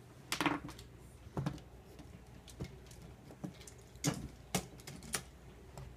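Toy trains and track pieces being handled, giving scattered light clicks and knocks about a second apart.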